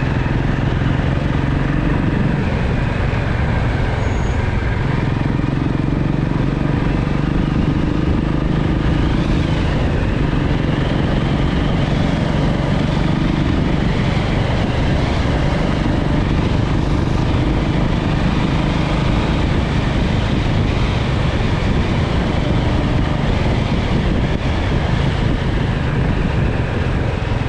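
Motorcycle running steadily on the move, with a constant heavy rush of road and air noise and a low engine hum that rises and falls slightly.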